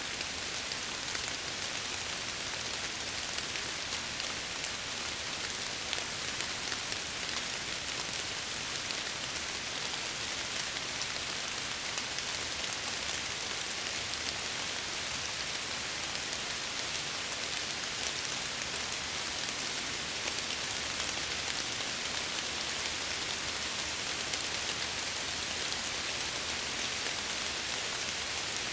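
Steady rain falling against window glass: an even hiss with scattered ticks of single drops.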